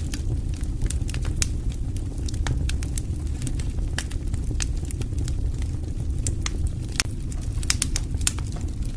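Fire in a fireplace crackling, with irregular sharp pops and snaps over a steady low rumble of flames.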